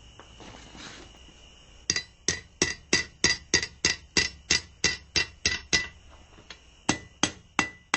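Hand hammer striking hot steel on an anvil, bending a square-bar fire poker. About two seconds in, a quick run of a dozen or so ringing blows comes at about three a second, then after a short pause a few more near the end.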